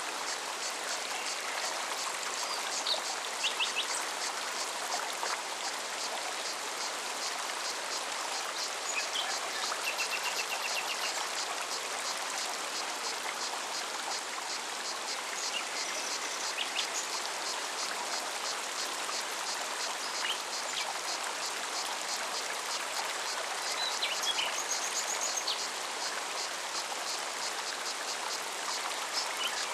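Forest mountain stream running steadily, with a cicada's rapid, regular high pulsing over it and a few brief bird chirps and trills.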